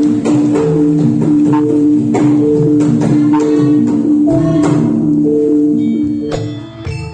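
Javanese gamelan music: a repeating pattern of struck, pitched metal notes over a low pulse, dropping in level about six seconds in as higher ringing notes come in.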